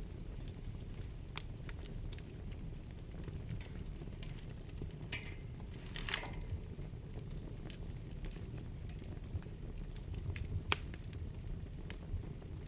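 Wood fire burning in a fireplace: a steady low rumble of flames with scattered crackles and pops, and a brief flurry of crackling about five to six seconds in.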